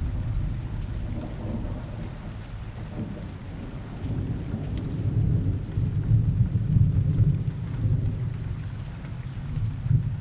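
Rain ambience with low rolling thunder, the rumble swelling about halfway through and again near the end.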